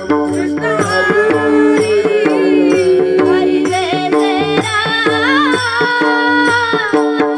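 Devotional singing: a strong voice holding long, gliding notes over a steady drone, with regular hand-drum beats.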